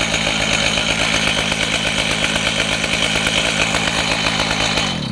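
Chainsaw running steadily at high revs, milling through a red oak log. Right at the end the engine winds down, falling in pitch, and stops.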